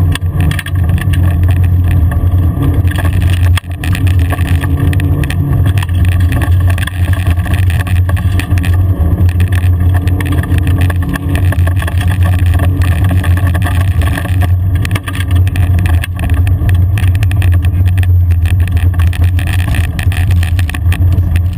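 Car engine droning steadily as heard inside the cabin while driving on a gravel track, with tyre and stone noise over it. The drone briefly drops twice, about three and a half seconds in and again about fifteen seconds in.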